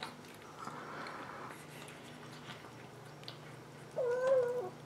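Siamese kitten giving one short meow near the end, a steady mid-pitched call lasting under a second. Before it there are only faint ticks and clicks around the food bowls.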